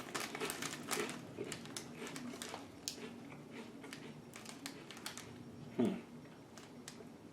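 Crunching on potato crisps: irregular sharp crackles and clicks of chewing, with a brief low hum just before six seconds in.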